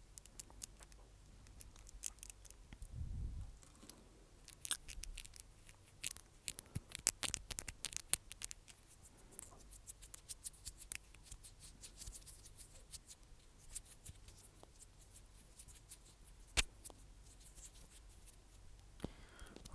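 Close-miked ASMR trigger sounds: a stream of irregular, crisp little clicks and crackles, some in quick clusters, with a soft low thump about three seconds in.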